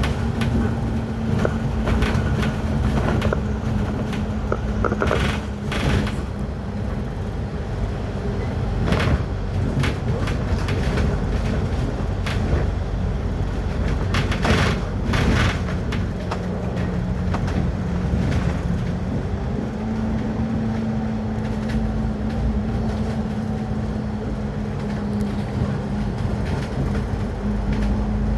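Motor vehicle driving along a road: a steady engine hum over dense low road rumble, with a few brief louder rushes of noise.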